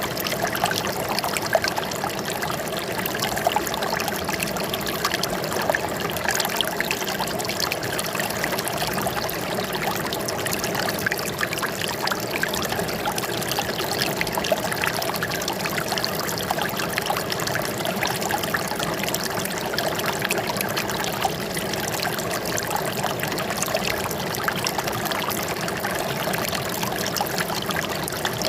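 Water flowing and trickling steadily, dense with small splashes, with no break or change.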